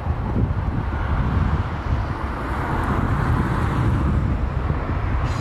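Electric commuter train approaching slowly with a steady low rumble, and wind buffeting the microphone.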